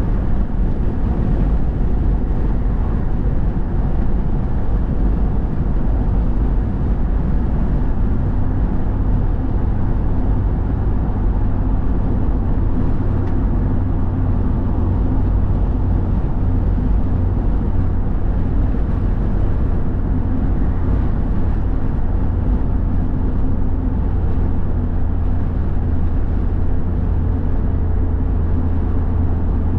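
Steady road and engine noise of a vehicle driving at an even speed, a low rumble with no change in pace.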